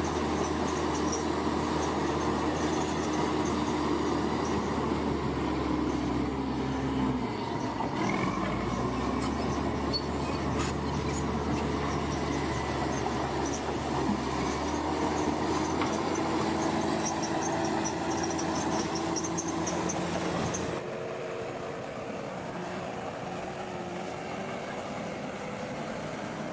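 Bulldozer's diesel engine running with a steady drone; its pitch dips and shifts about seven to eight seconds in. About 21 seconds in, the sound cuts abruptly to a quieter engine drone.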